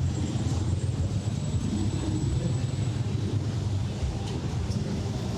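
Steady low rumble of city traffic, with a faint thin high whine over it.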